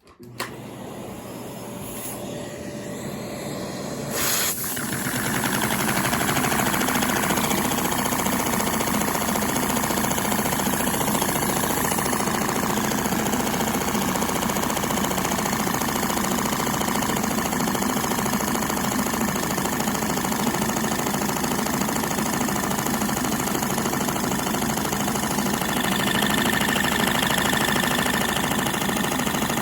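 LEGO butterfly vacuum engine running, a dense steady mechanical noise that builds up over the first five seconds and then holds steady.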